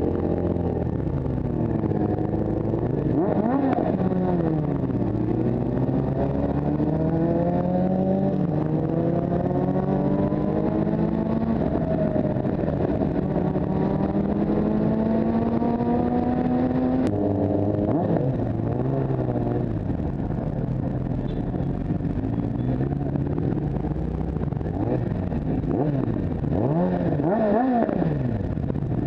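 Motorcycle engine under way, its pitch climbing steadily through a long pull, then dropping abruptly at a gear change about two-thirds of the way in, followed by several short revs up and down.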